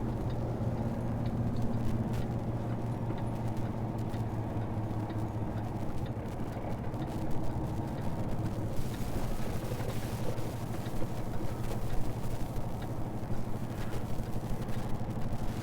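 Semi truck's diesel engine running at low speed while the rig is maneuvered slowly, a steady low hum with a faint hiss coming in about nine seconds in and a few light clicks.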